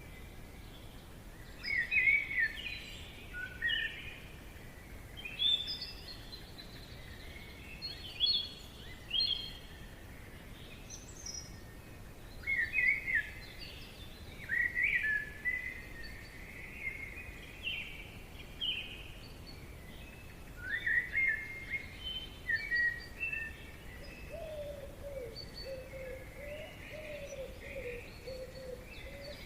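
Songbirds singing in a forest: short chirping and trilling phrases every second or two, with a lower wavering call joining near the end, over a faint steady background hiss.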